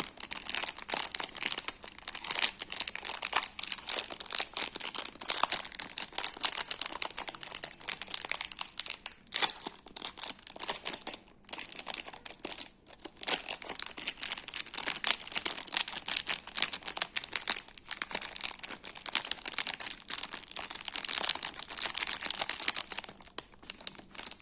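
Crinkly sweet wrappers being handled and crumpled: a dense, continuous crackle with brief lulls.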